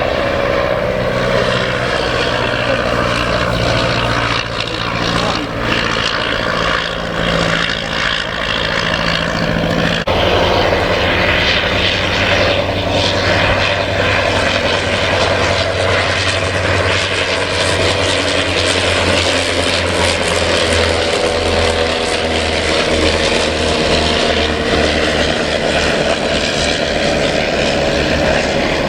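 Piston engine of a propeller aircraft running steadily. About ten seconds in the sound switches abruptly to a lower, deeper engine note.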